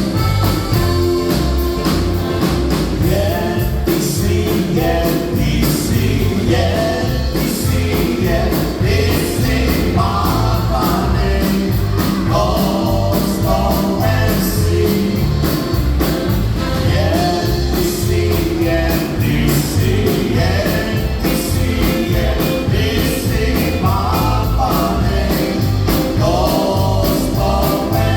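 Polka band playing live, with a steady two-beat bass pulse under the melody.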